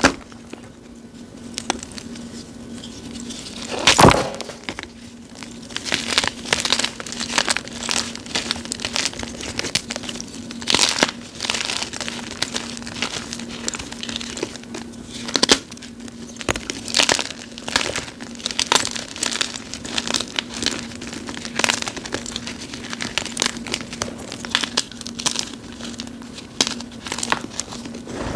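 Crunchy reformed gym chalk blocks, topped with cornstarch and glitter, crushed by hand. There is one loud crunch about four seconds in, then a dense, irregular run of crackling crunches as the block breaks into pieces.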